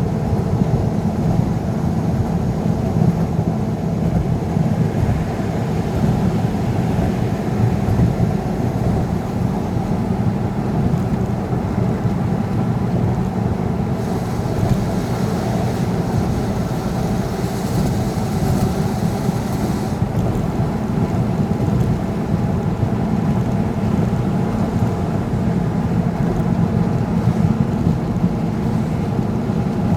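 Vehicle driving on a highway: a steady engine and road rumble, with a hiss that rises for several seconds about halfway through.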